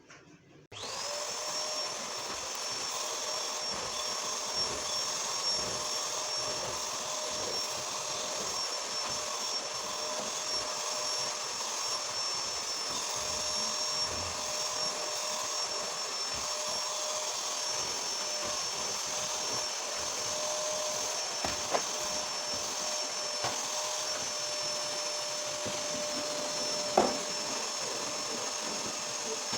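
Vacuum cleaner switching on and running steadily, its motor giving a constant whine, with a couple of short knocks in the second half.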